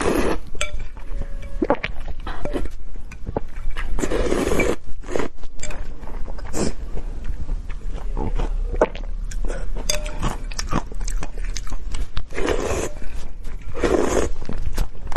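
Close-miked eating sounds: chewing with many short wet mouth clicks, broken by a few longer, louder noisy bursts. A steady low hum lies underneath.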